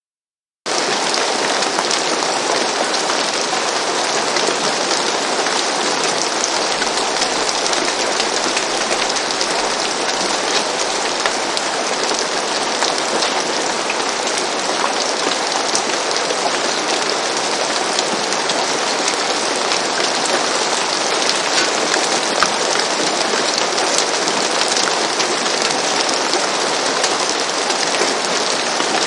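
Steady rain falling on a roof, a dense even patter with many small drop ticks. It starts abruptly out of silence just under a second in.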